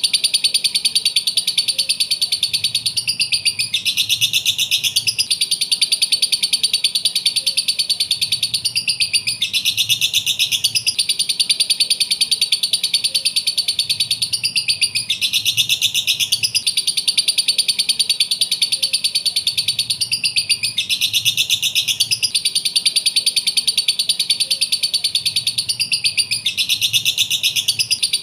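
Lovebirds chattering in a dense, rapid, high twittering trill with no pause, the same phrase recurring about every six seconds as if looped.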